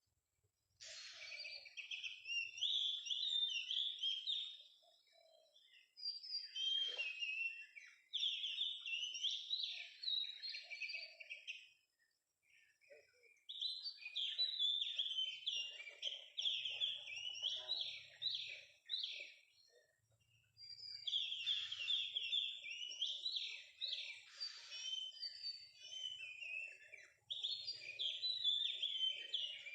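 Oriental magpie-robin (kacer) song: repeated phrases of rich, varied whistles and chattering notes, coming in bursts of a few seconds with short pauses between them.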